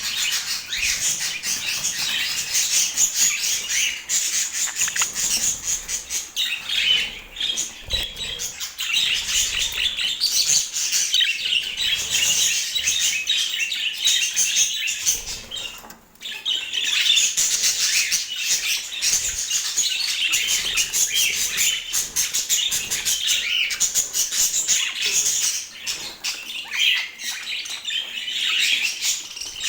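Budgerigars chattering and chirping continuously in quick high notes, with a brief lull about halfway through.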